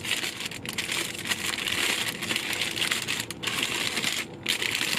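Chicken sandwich's wrapper crinkling as it is pulled open, a near-continuous rustle broken by a couple of brief pauses.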